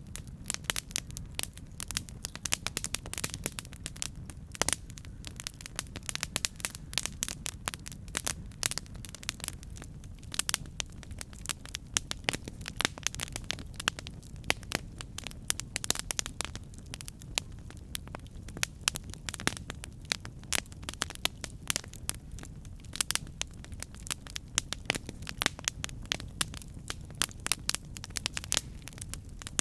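Wood fire burning, with dense, irregular crackles and pops over a steady low rumble.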